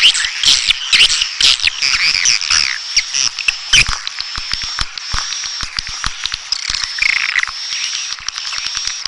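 Dense chattering of swiftlets: many overlapping high, twittering chirps peppered with rapid clicks, with no let-up.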